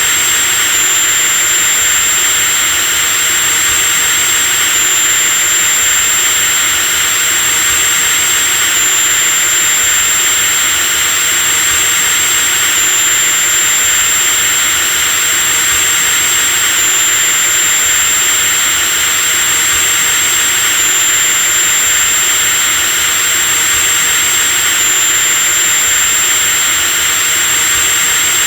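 Electric drill motor running continuously at a steady speed: a high whine over a bright hiss, with a slight hitch in the whine about every four seconds.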